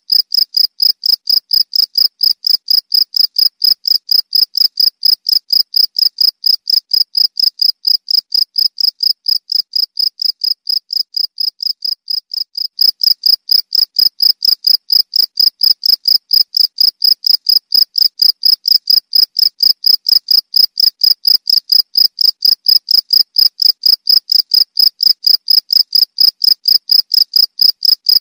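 Cricket chirping steadily in a fast, even rhythm of high-pitched chirps, about three a second, with a brief softer stretch around twelve seconds in.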